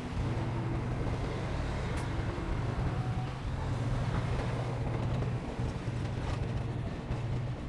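Heavy diesel engine of earthmoving equipment running steadily with a low, continuous drone.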